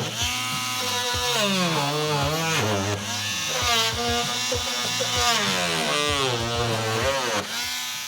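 Small handheld power tool cutting through the plastic housing of a BMW SCR AdBlue active tank, its motor whine dropping in pitch as it bites and rising again as it frees up, over and over.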